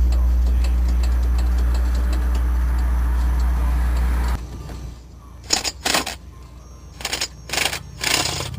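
A steady low hum with faint regular ticking cuts off suddenly about four seconds in. It is followed by five short bursts of ratchet wrench clicking as manifold bolts are worked loose.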